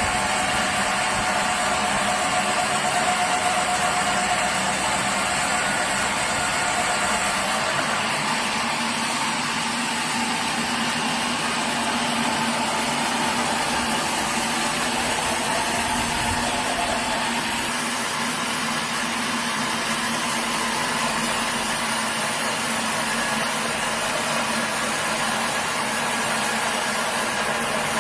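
Sawmill machinery running steadily, a constant mechanical drone with a whining tone that drops in pitch about eight seconds in.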